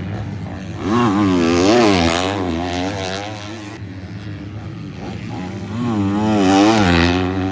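Motocross bike engines racing past on the track, the revs swinging rapidly up and down as the riders work the throttle. Two loud passes, about a second in and again near the end.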